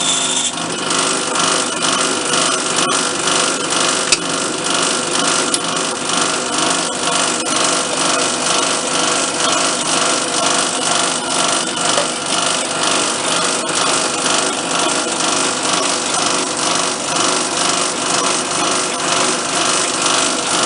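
A power tool's motor runs steadily with a fine, fast rattle while metal is machined down by about 43 thousandths of an inch.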